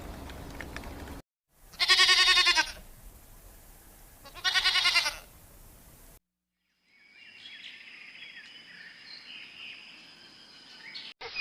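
A bleating farm animal calls twice, each wavering bleat just under a second long, about two and a half seconds apart. After a short silence comes a quieter stretch with a faint steady high whine and scratchy sounds.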